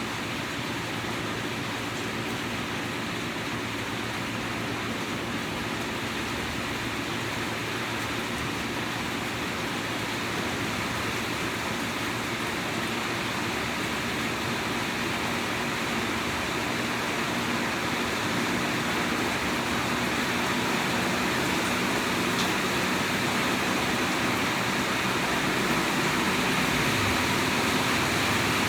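Steady rain falling, building gradually a little heavier, with a faint low steady hum underneath.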